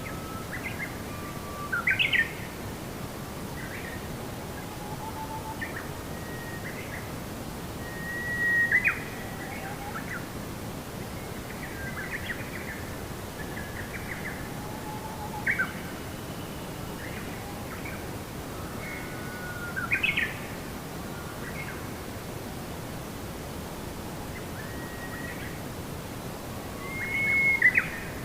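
Several songbirds chirping and whistling short phrases over a steady background hiss, with a louder burst of calls every five to seven seconds.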